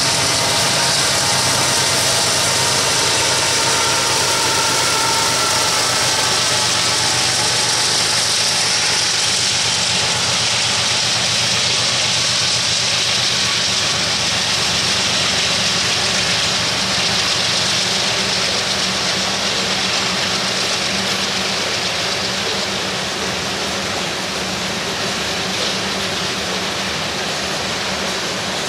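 Norfolk Southern and Union Pacific diesel-electric freight locomotives running under power as they pass close by, their engine hum fading after about ten seconds into the steady rolling rumble of a long train of tank cars on the rails.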